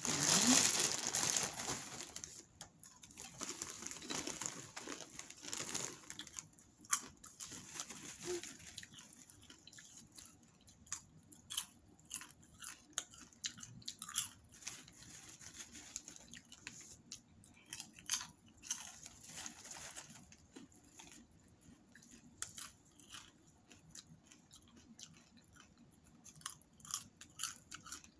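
A large plastic bag of popcorn rustling loudly as a hand reaches in at the start. Then a person chewing popcorn with many short, irregular crunches.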